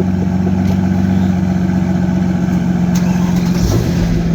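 Aston Martin Rapide S V12 engine running steadily at idle.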